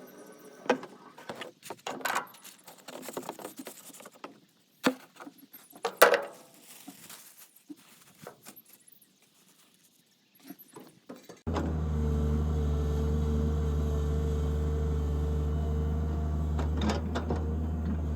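Irregular clattering and knocks over quiet, then about eleven seconds in the steady drone of a Tata Hitachi 130 excavator's diesel engine running, which starts abruptly and holds steady.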